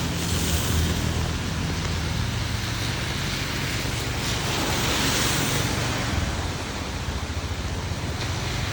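Heavy rain falling steadily: a dense hiss with a low rumble beneath it, swelling briefly about half a second in and again around five seconds in.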